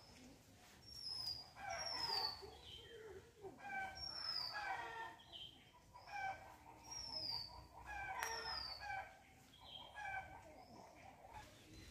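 Birds calling repeatedly: high whistled notes that fall in pitch, every second or two, with lower chattering calls between them.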